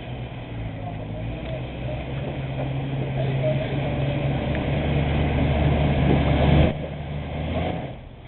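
Jeep engine pulling under load as it crawls up the rocks of a waterfall, growing steadily louder, then dropping off suddenly about two-thirds of the way through.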